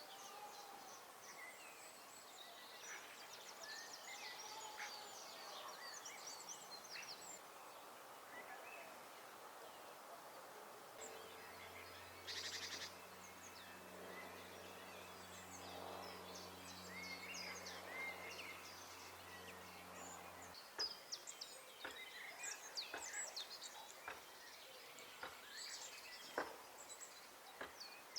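Faint garden songbirds chirping and calling in short twitters throughout, with one rapid trill about halfway in. A low, steady motor hum runs under them for several seconds and cuts off suddenly about two-thirds of the way through. A few sharp ticks come near the end.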